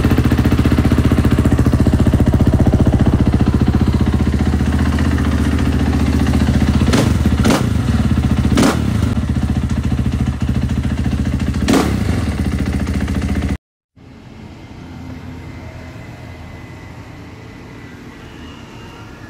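Husqvarna dirt bike engine running loud and steady, with four short sharp blips about halfway through. After a sudden cut near the end, a quieter steady engine sound.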